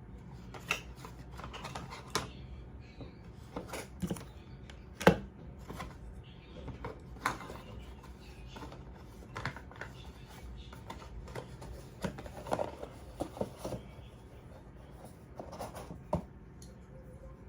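Hands handling packaging and equipment: scattered clicks, taps and rustles, the loudest a sharp knock about five seconds in.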